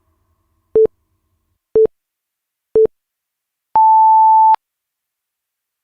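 Workout interval timer counting down: three short, low beeps about a second apart, then one longer, higher beep that signals the start of the next interval.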